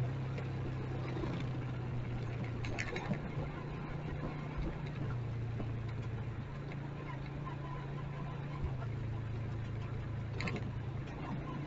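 Motorcycle engine idling steadily at a low even pitch, with a couple of short clicks.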